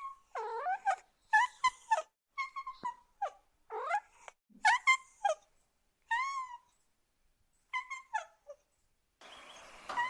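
A cat meowing over and over: a quick series of short, high calls with brief gaps between them. About a second before the end a steady hiss sets in under a few more calls.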